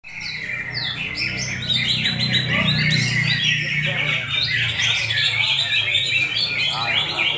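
Cucak hijau (green leafbird) singing a long, continuous run of rapid high chirps and quick up-and-down whistled notes, with a steady low hum beneath.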